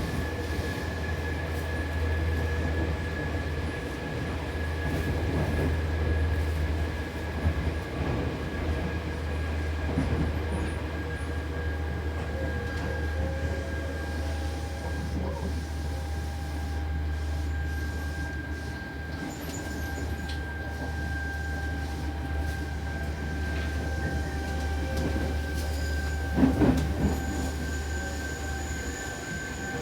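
Running sound inside a Seibu New 2000 series electric train car at speed: a steady deep hum with a thin high tone that sags slightly in pitch, and wheel noise on the rails. A short louder clatter of wheels over rail joints comes near the end.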